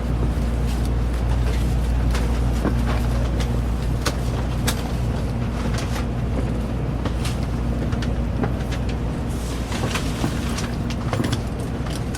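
Steady low rumble and hum inside a Shinkansen passenger car, with scattered short clicks and knocks; the deepest rumble eases a little near the end.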